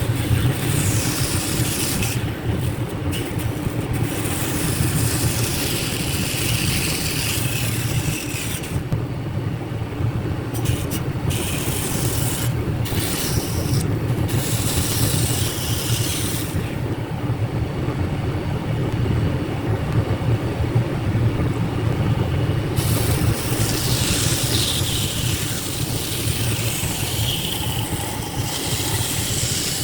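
Power tool motor running steadily, with stretches of high scraping noise as material is worked several times.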